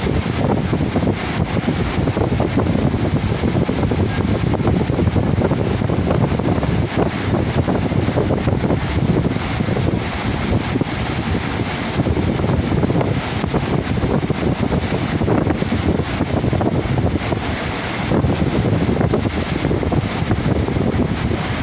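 Steady rush of pumped water on a cruise ship's surf simulator (FlowRider), with wind buffeting the microphone.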